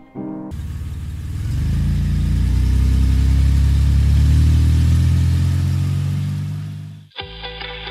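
Volkswagen New Beetle convertible's engine pulling away and accelerating, the engine note rising and then fading as the car drives off. It cuts off near the end as guitar music comes in.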